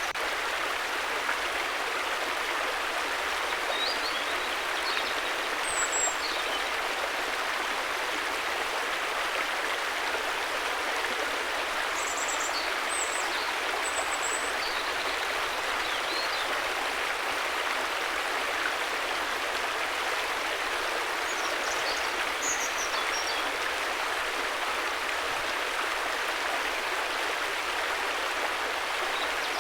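River water flowing in a steady rush, with brief high chirps now and then.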